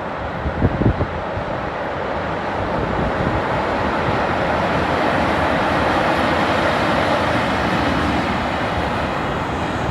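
Train crossing a steel railway bridge: a continuous rumble and rattle of wheels on the span, growing louder over the first few seconds and then holding steady. A few heavy thumps about a second in.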